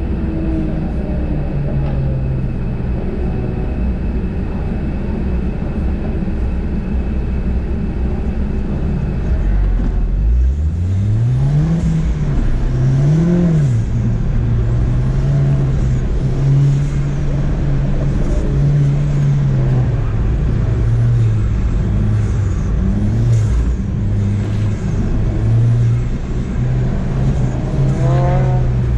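Ford Fiesta ST's turbocharged four-cylinder engine idling steadily for about ten seconds, then launching hard: revs rise, drop at an upshift and rise again, and the engine runs at high load with the revs rising and falling through the rest, as the car is driven flat out on an autocross course.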